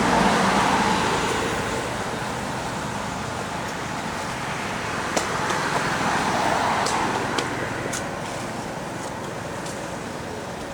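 Road traffic noise: a steady rush of passing vehicles that swells twice, near the start and again past the middle, with a few faint clicks.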